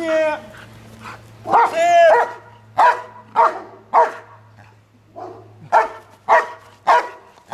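Trained protection dog barking, short sharp barks about every half second in two runs, after a longer drawn-out cry about two seconds in.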